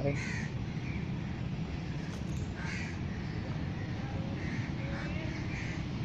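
Birds calling: short calls scattered every second or so, over a steady low rumble.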